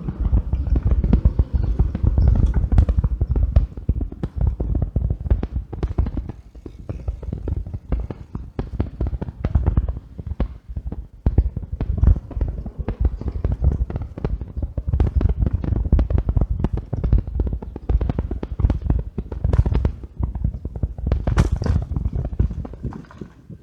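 Rapid, irregular rattling and knocking over a heavy low rumble: a bicycle and the camera riding on it jolting as it rolls over a rough surface.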